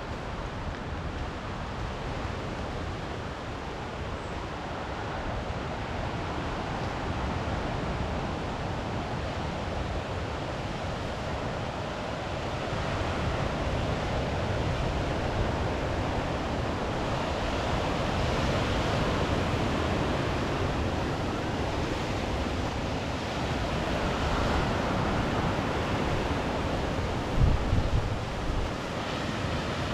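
Sea surf washing onto the shore with wind, swelling and easing as waves come in. Near the end, wind gusts buffet the microphone.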